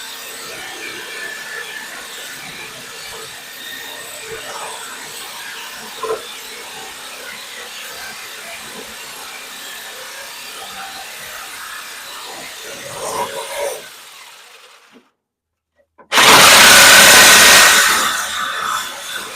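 Steady, moderate tool-work noise with faint scraping and ticks. About fifteen seconds in, the sound cuts out completely for about a second, then comes back as a very loud rush of noise that lasts about two seconds and fades.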